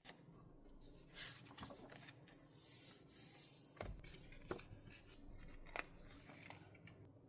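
Quiet paper and stationery handling on a desk: a paper rustle about midway, then three sharp clicks over the next two seconds.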